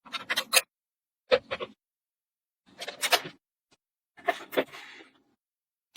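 Small magnetic balls clicking and snapping together as they are placed, in quick clusters of a few sharp clicks about every second and a half.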